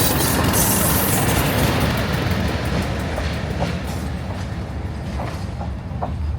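Train running on the rails, a steady rumble with some clatter that fades and dulls as it draws away.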